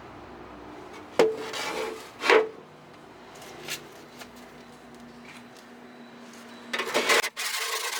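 Handling and working sounds: two sharp knocks about a second apart that ring briefly, then light scraping, and a short burst of rubbing near the end.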